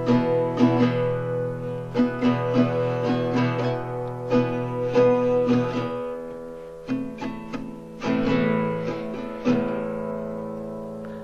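Guitar playing a strummed chord intro, chords ringing between strokes, with a change of chord about seven seconds in.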